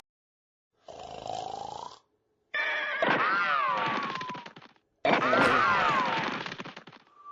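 Snoring from sleeping pirate characters: a shorter, breathy snore with a slight rise in pitch, then two long, loud snores whose wavering pitch slides down and fades at the end, with complete silence between them.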